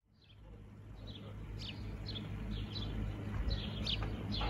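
Small birds chirping, short high calls repeated a few times a second, over a low steady hum of harbour ambience; the sound fades in from silence over the first second or so.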